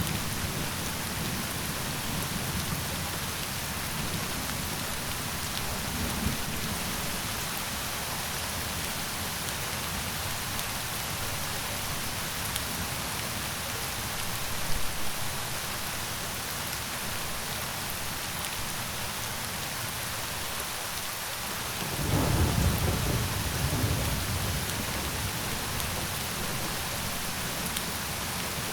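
Steady rain hiss with thunder. A low rumble of thunder fades away over the first couple of seconds, and another rolls in suddenly about three-quarters of the way through and dies away over a few seconds.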